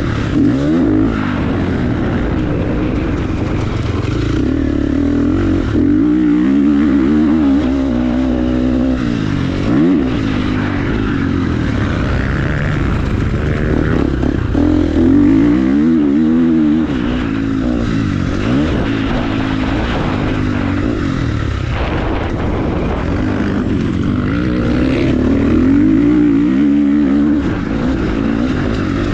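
Motorcycle engine being ridden, its pitch repeatedly climbing and dropping every few seconds as the throttle is opened and closed through the gears.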